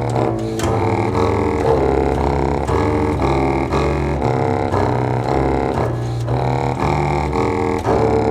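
Contemporary experimental music for clarinet and double bass: low, dense tones that pulse in short repeated notes.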